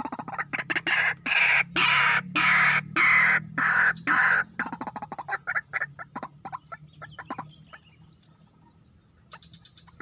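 White-breasted waterhen calling: several loud, harsh, croaking calls close together, then a fast run of shorter notes that dies away about seven seconds in.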